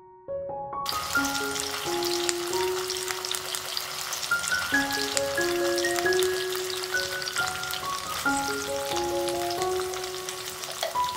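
Hot oil sizzling and crackling in a nonstick pan as onion-tomato masala paste fries and is stirred with a wooden spoon. The sizzle starts suddenly about a second in.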